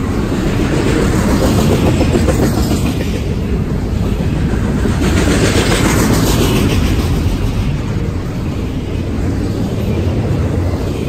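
A train passing close by: a loud, steady rumble of wheels on rail with a faint clickety-clack, swelling and easing a little as the cars go past.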